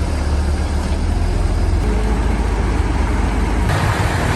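Heavy transport truck's engine running with a steady deep rumble and road noise. The sound changes abruptly near the end.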